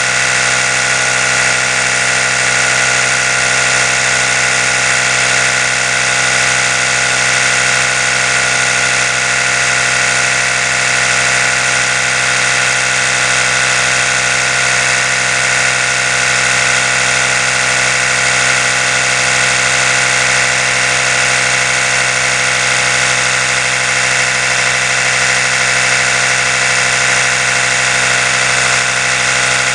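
Electric toothbrush motor running with a steady, unbroken buzz, its brush head spinning.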